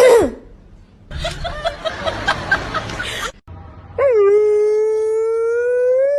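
A dog howling: one long, loud howl begins about four seconds in and rises slowly in pitch. It follows a short falling yelp at the start and a busy jumble of sound in between.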